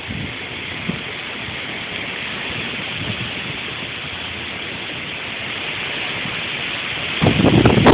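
Hurricane wind blowing as a steady hiss, with a gust buffeting the microphone and rumbling loudly about seven seconds in.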